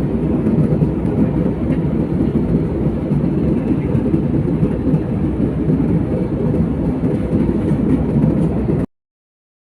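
Airplane cabin noise: a steady low rumble of engines and rushing air, cutting off suddenly near the end.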